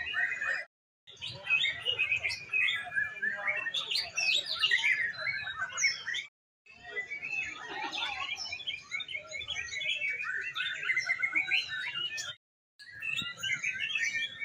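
Caged competition songbirds singing continuously in fast, dense chirps and trills, with several birds overlapping. The sound drops out completely twice for a fraction of a second.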